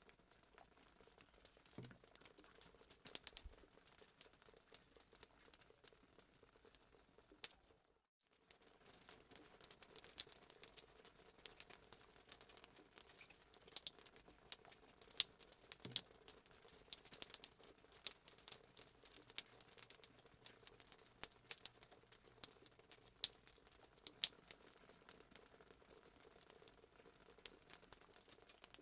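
Fireplace sound effect: a wood fire crackling with irregular sharp pops over a faint hiss, cutting out briefly about eight seconds in.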